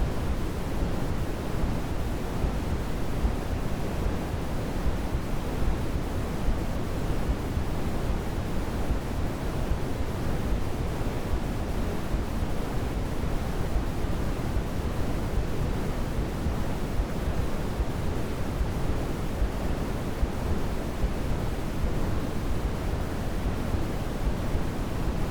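Steady white noise for baby sleep, an even, unchanging hiss weighted toward the low end with no swells or breaks.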